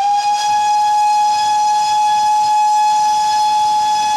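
Steam locomotive's whistle blowing one long, steady blast at a single pitch.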